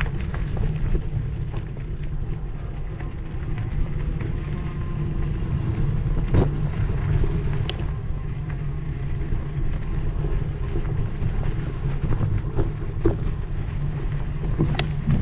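Steady low wind rumble on the microphone, with scattered knocks and rattles of a mountain bike rolling over a rough trail.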